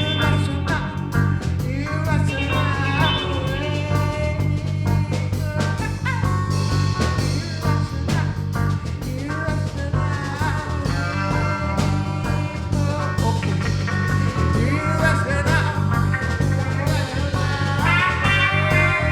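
Band playing an instrumental passage: a guitar lead with bending, wavering notes over a steady bass line and drums.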